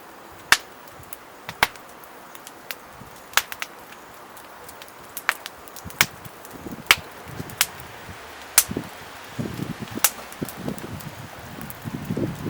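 Wood burning in a small campfire grill, popping with sharp, irregular cracks about once a second, with some lower rushing noise in the last few seconds.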